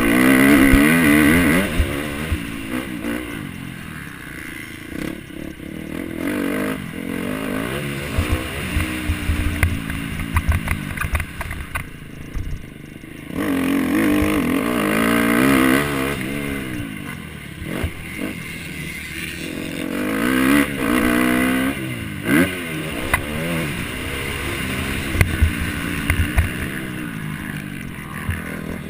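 MX1 motocross bike engine revving hard and falling off again and again as it runs around the track, with scattered sharp knocks and clatter.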